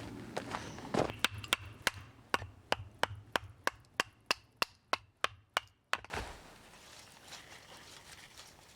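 A rapid run of sharp, evenly spaced knocks, about three a second for some five seconds, that stop abruptly about six seconds in.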